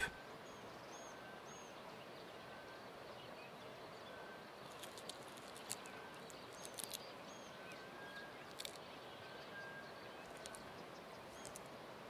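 Faint outdoor ambience: a steady low hiss with scattered short, high bird chirps and a few brief clicks.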